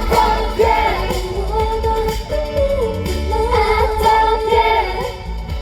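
K-pop dance-pop song sung by a girl group, with female vocals carrying the melody over a heavy, steady bass beat.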